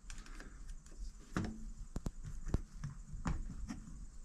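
Scattered light clicks and knocks of small carburetor parts being handled and fitted, about six separate taps with short gaps between.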